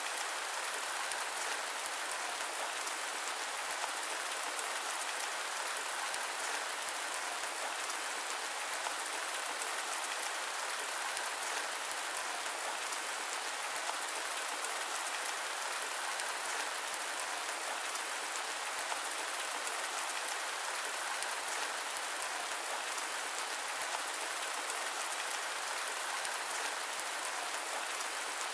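Steady rain falling on a surface: an even, unbroken hiss with a fine patter of drops, with no thunder.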